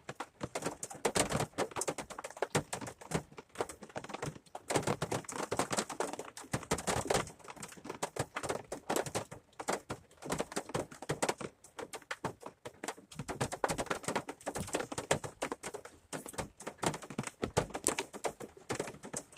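Rain falling, its drops tapping and pattering irregularly, swelling and easing in uneven surges.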